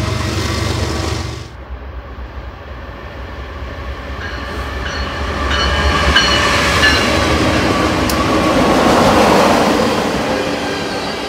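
Norfolk Southern freight train rolling past: a deep locomotive drone cuts off abruptly about a second and a half in, then the cars' wheels rumble on the rails, growing louder, with thin high wheel squeals.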